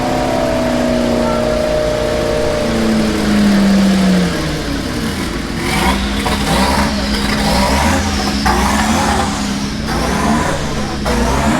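Car engine, loud: its note falls steadily in pitch over the first four seconds, then it settles into a lower, steady run with swells in revs.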